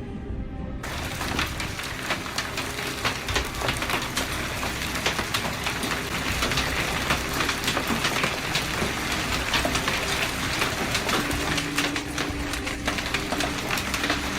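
Heavy rain beating on a surface: a dense hiss thick with sharp ticks, cutting in abruptly about a second in.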